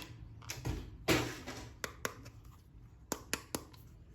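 Hands handling a plastic toy figure and its wrapping: a short rustle about a second in, then several sharp clicks and taps.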